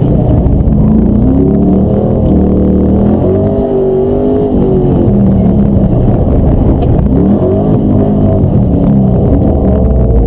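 LS V8 engine in a Chevrolet S-10 pickup on an autocross run, loud throughout, its pitch repeatedly climbing under acceleration and dropping off as the driver lifts for corners.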